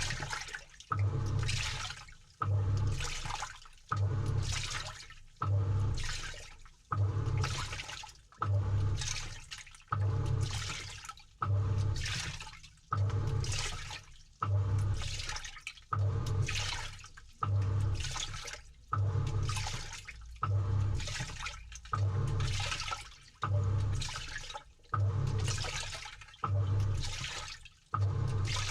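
Samsung 6.5 kg top-load washing machine agitating, heard from inside the tub: the pulsator motor drives in strokes about every second and a half, each with a low hum and a surge of sloshing water and clothes that fades before the next.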